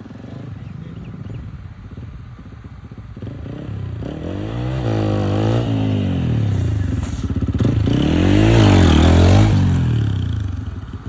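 Motorcycle engine revving: its pitch rises and falls twice, getting louder toward the second rev and then dropping away near the end.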